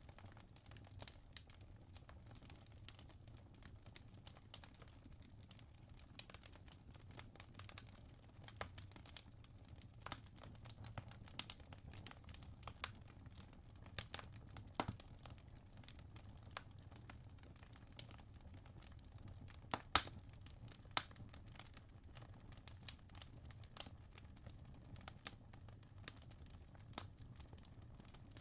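Wood fire crackling: scattered, irregular pops and snaps, one sharper pop about twenty seconds in, over a faint steady low hum.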